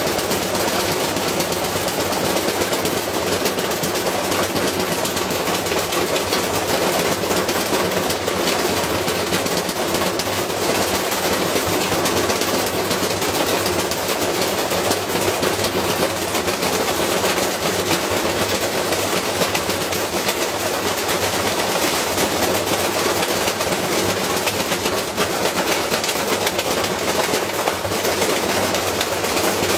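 Washing machine spinning with a heavy iron weight loose in its drum, a continuous rapid clatter of metal banging and rattling against the drum and casing over the steady run of the motor.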